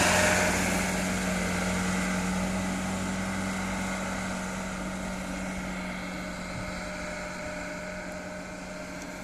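Loaded truck engine droning steadily at one pitch, fading gradually as it moves away.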